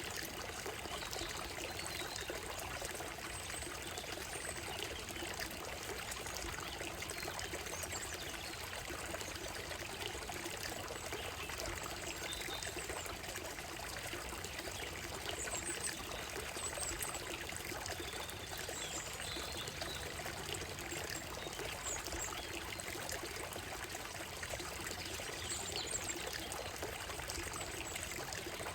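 Shallow stream running and trickling steadily over stones and gravel, with a few faint, short high bird calls scattered over it.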